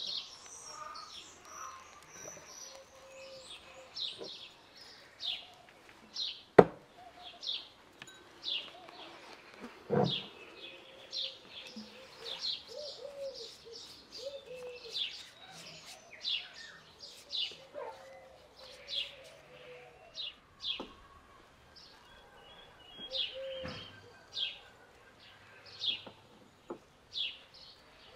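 Small birds chirping over and over in short downward notes, about one or two a second. A single sharp click about six and a half seconds in and a duller knock near ten seconds stand out above them.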